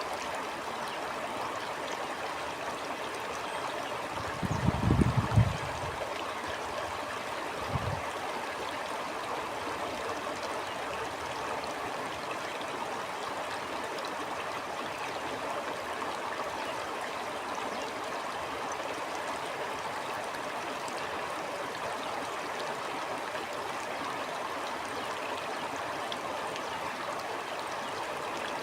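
Stream water flowing and gurgling steadily. A brief low rumble about four seconds in, the loudest moment, and a shorter one near eight seconds.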